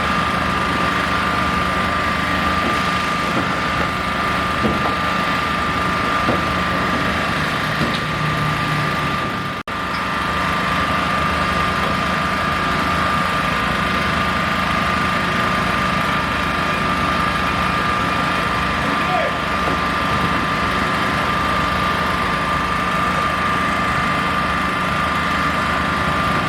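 Heavy construction machinery engine running steadily, a constant high whine over a low hum. The sound drops out for a moment about ten seconds in.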